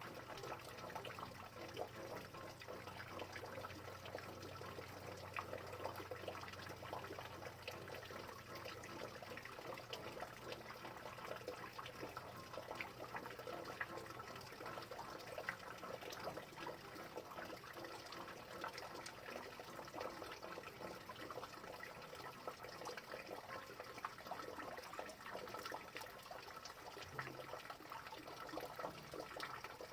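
Steady rain: a dense patter of drops with running water. A faint low hum fades out about nine seconds in.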